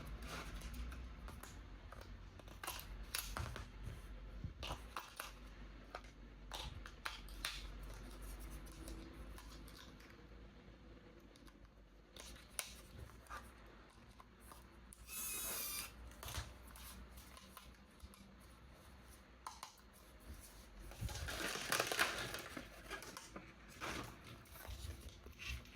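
Toy packaging being handled and opened: scattered clicks and taps, a short tearing sound about fifteen seconds in, and a longer, louder stretch of tearing and crinkling about twenty-one seconds in.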